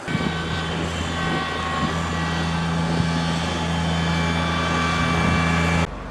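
Snow blower engine running steadily at a constant pitch, growing slightly louder, then cutting off abruptly near the end.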